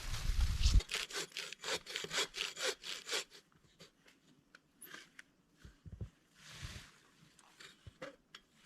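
Quick, rhythmic scraping strokes, about five a second, for a couple of seconds, then a few scattered soft knocks and rustles.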